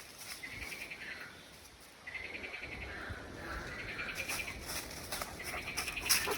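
A bird repeating a short song phrase every second and a half or so: a quick trill that drops in pitch at the end.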